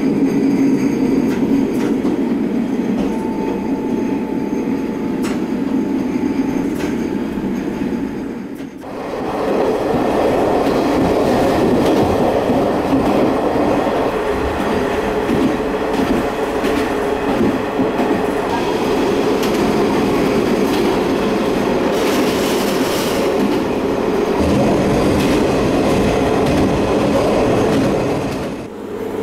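Diesel railcar on the non-electrified Noto Railway Nanao Line, heard from inside the car: a steady engine drone with wheels clicking over rail joints. About nine seconds in the sound switches abruptly to a louder, broader running rumble.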